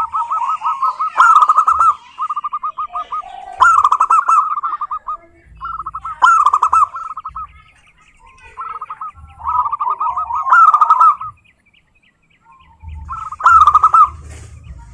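Zebra dove (perkutut) song: phrases of rapid, stuttering coos, each phrase a couple of seconds long, with a louder burst within each, repeated with short pauses and a longer gap near the end.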